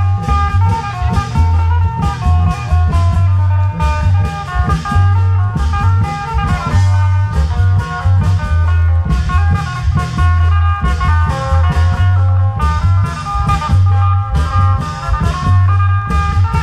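Isan klong yao long-drum band playing: a heavy, steady low drum beat with a fast melody line over it.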